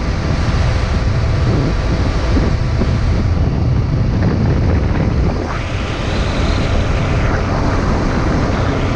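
Motorcycle riding: steady, loud wind rush over the microphone with the engine's drone underneath.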